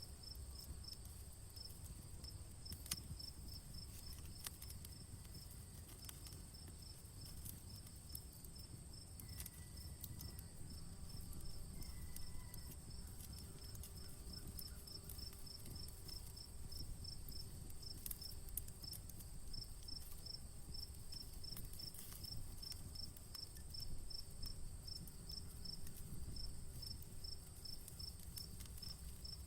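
Outdoor campfire crackling with scattered sharp pops over a low steady rumble, while insects chirp in an even rhythm of about two to three chirps a second over a continuous high-pitched trill.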